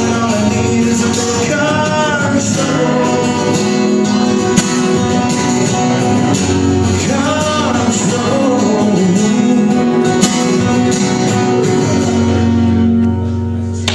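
A live song: a singer's voice over acoustic guitar, with long held sung notes. The music eases off slightly near the end.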